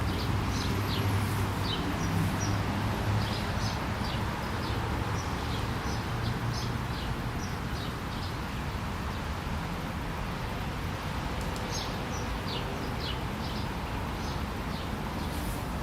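Birds chirping with many short, high calls over a steady background noise, with a low hum through the first half.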